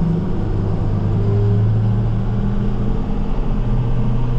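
Diesel salt-and-plow truck's engine running steadily as it drives, heard from inside the cab. The drone shifts slightly in pitch about half a second in and again near the end.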